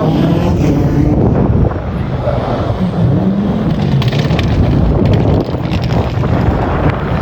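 Rally car engine running hard on the stage, its pitch shifting up and down with throttle and gear changes.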